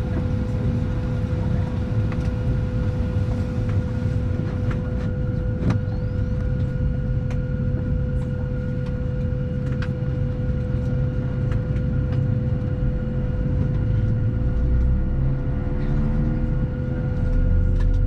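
Cabin noise inside a Boeing 737-700 on the ground: a steady rumble and hum from its CFM56 engines and air system, with a steady whine and a few faint clicks and rattles. Near the end the low rumble grows louder.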